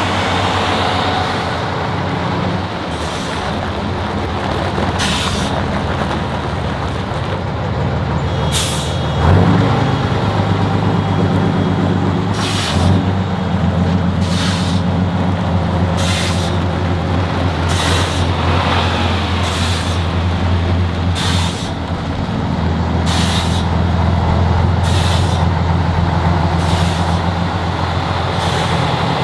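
Heavy truck's diesel engine running, with short hisses of air, like air brakes, repeating about every one to two seconds over it. The engine gets louder about nine seconds in.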